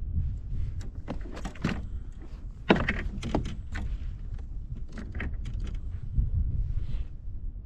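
Scattered clicks, knocks and rattles of fishing gear being handled in a kayak, with one sharper knock about three seconds in, over a steady low rumble of wind on the microphone.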